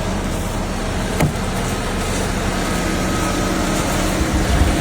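Steady vehicle engine and road noise with a faint hum, and a single click about a second in.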